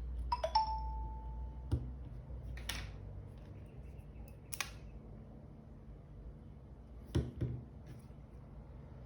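A two-note chime falling in pitch, the second note held for about a second, followed by a few light clicks and taps.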